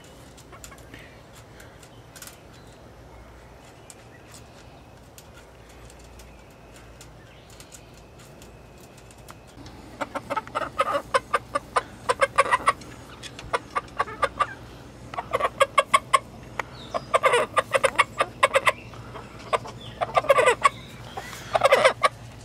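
Cochin chicken calling in loud bursts of rapid clucks, one to two seconds each, repeating from about ten seconds in. Before that there are only faint ticks.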